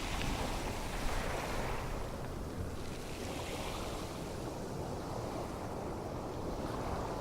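Steady rushing noise, surf- or wind-like, that swells over the first two seconds and then eases.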